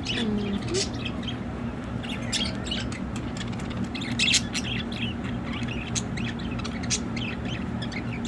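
Budgerigars chirping and chattering: a run of many short, sharp chirps and squawks, with a steady low hum underneath.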